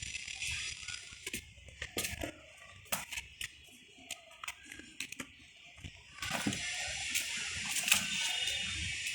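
Cats at play making scattered sharp clicks and light knocks, irregular and uneven, over a steady hiss. The hiss drops away about a second in and comes back after about six seconds.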